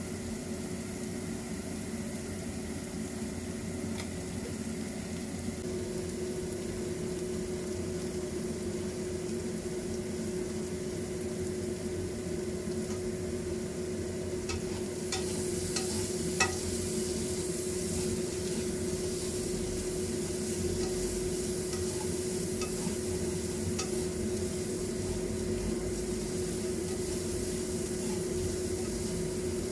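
Spring rolls (lumpia shanghai) deep-frying in a pot of hot oil: a steady sizzle and bubble. About halfway through the sizzle grows brighter and a few sharp utensil clicks sound as diced food is stirred in a wok.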